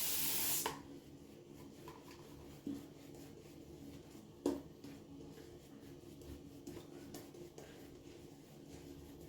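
A tap runs briefly and is shut off under a second in. Then comes the faint, soft rubbing of a shaving brush working lather, with two light knocks, the second louder, about 2.5 and 4.5 seconds in.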